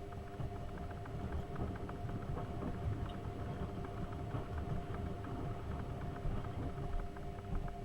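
AEG Öko-Lavamat 72520 front-loading washing machine running its wash: the drum tumbling wet laundry with irregular sloshing and rumbling over a steady motor hum.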